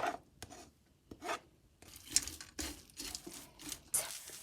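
A few light knocks, then a spatula scraping and stirring through chickpeas frying in a pan, with a crackling sizzle that thickens about two seconds in.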